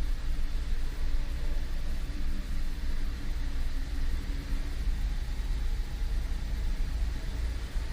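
2013 Cadillac CTS 3.0's V6 and driveline running in gear at a steady road speed of about 40 to 45 mph, a constant low rumble. The run is a vibration test of the driveshaft's phasing to a newly fitted differential.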